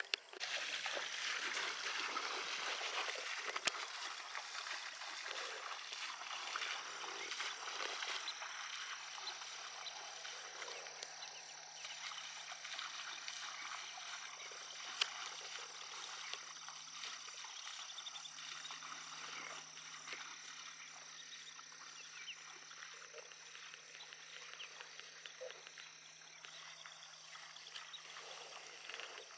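Faint marsh ambience: a dense chorus of tiny ticks and chirps from small wildlife, over a steady low hum, with a couple of sharper clicks.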